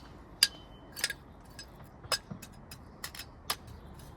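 Pavers clinking and knocking against one another as they are set and pushed tight in a row: about half a dozen sharp, irregular clinks, the loudest about half a second in.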